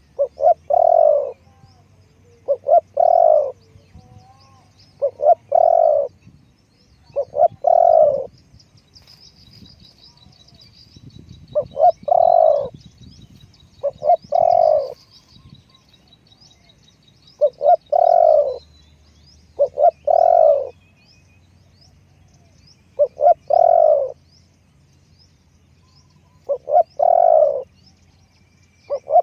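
Spotted dove cooing over and over, about ten calls two to three seconds apart, each a quick pair of short notes followed by a longer coo. Small birds chirp faintly and high in the background.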